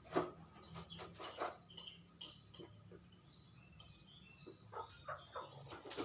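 Bantam chickens giving short, faint chirping calls among scattered knocks and rustles.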